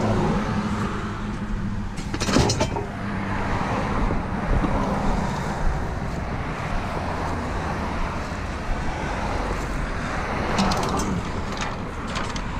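A motor vehicle's engine running with a steady low hum over general street noise, with brief sharp clatters about two seconds in and again near the end.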